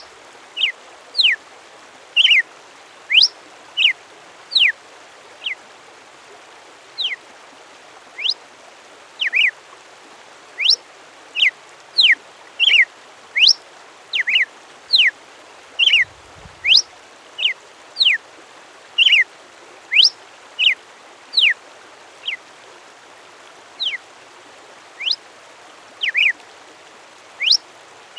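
A songbird giving a long series of short, sharp whistled notes, some sweeping up and some sweeping down, about one or two a second, over a steady background rush.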